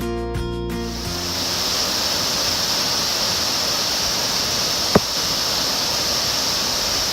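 Guitar music ending about a second in, then the steady rush of a waterfall running high after heavy rain. A single sharp click about five seconds in.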